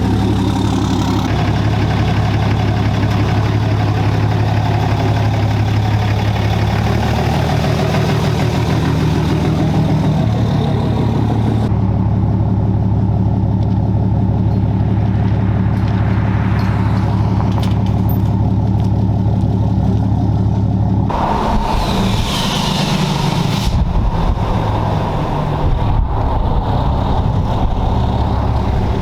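6.7-litre Cummins turbo-diesel in a Ram 2500 running through a 5-inch turbo-back exhaust, mostly idling. The engine note shifts a few times, and it turns rougher and more uneven in the last third.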